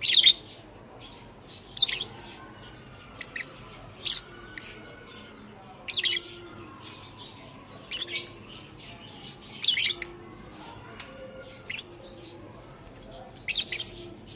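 Lovebirds giving short, shrill chirps, a burst roughly every two seconds.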